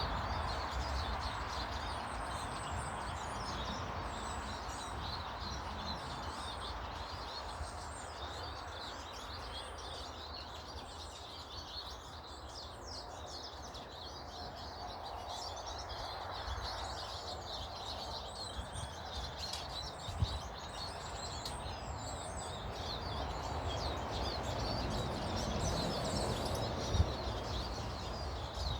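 Small garden birds chirping and twittering continuously over a steady background of outdoor noise and low rumble, with two brief knocks late on.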